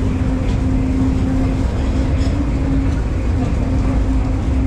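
Mine tour train running, a steady rumble with a constant low tone over it.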